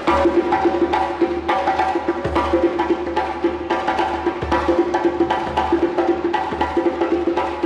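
Live percussion music: drums played in a fast, busy rhythm, with dense, evenly repeating strokes.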